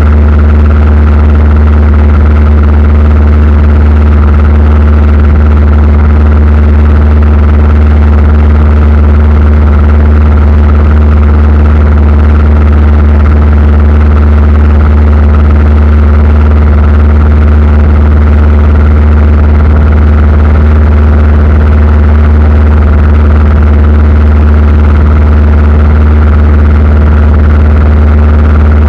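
Aircraft engines droning steadily, heard from inside the cabin: a loud, even low hum with steady tones above it.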